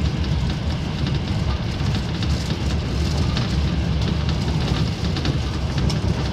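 Steady running noise of a passenger train at speed, heard from inside the carriage: a low rumble from the wheels on the rails with faint crackling ticks over it.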